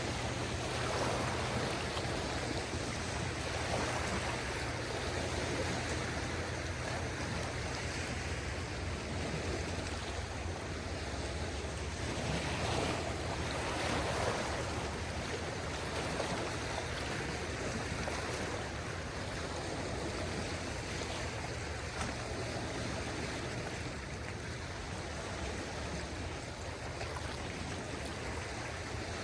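Calm sea: small waves lapping and washing ashore in gentle swells, with a light breeze.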